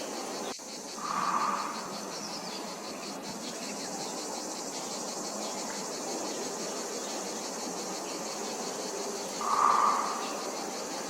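Steady high-pitched insect chirring, with two short, louder mid-pitched sounds: one about a second in and one near the end.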